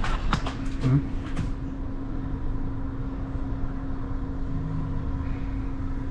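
Strong snowstorm wind rumbling against the microphone, under a steady low hum. A handful of sharp clicks come in the first second and a half.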